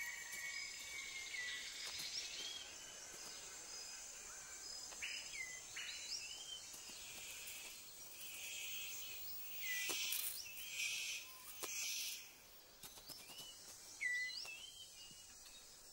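Tropical rainforest ambience: a steady high insect drone with short, hooked bird calls repeated every second or so. About two-thirds of the way through come a few louder rustling bursts.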